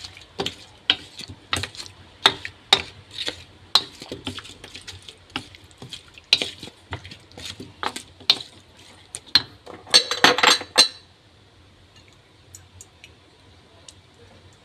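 A utensil clinking against a bowl as chicken is mixed in its marinade: sharp, irregular clinks for about ten seconds, a short dense clatter, then mostly quiet with a few faint ticks.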